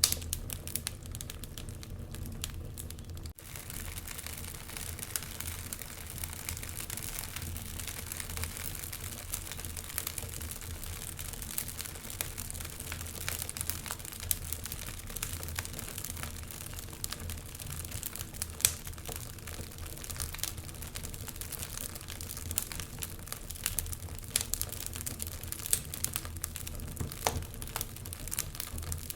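Wood fire in a fireplace crackling, with scattered sharp pops over a low steady rumble; one louder pop a little past halfway. The sound drops out for an instant about three seconds in.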